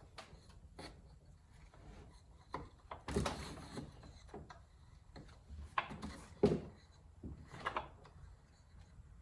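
Scattered handling knocks, clicks and rubs of hard tools and chainsaw parts being moved about, with louder knocks about three seconds in and again about six and a half seconds in.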